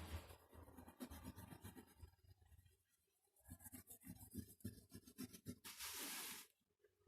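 Faint scratching of quick drawing strokes on paper, with one longer stroke about six seconds in.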